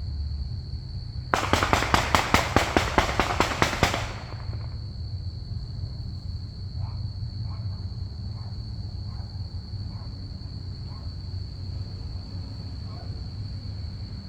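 Crickets trilling in one steady high tone. About a second in, a rapid string of sharp cracks, about five a second, runs for two and a half seconds and then stops.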